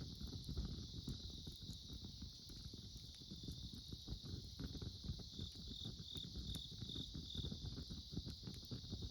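Wood campfire crackling with small pops over a steady chorus of autumn insects. Around the middle, one insect gives five short chirps, about two a second.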